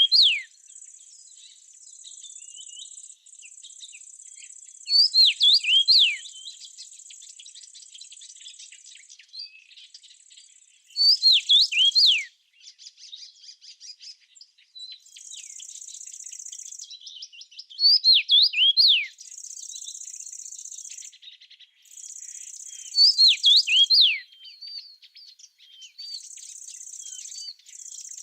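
A songbird repeats a short, loud phrase of quick down-slurred whistled notes about every six seconds. Between the phrases, an insect's high, thin buzzing trill runs in stretches of a few seconds, stopping and restarting.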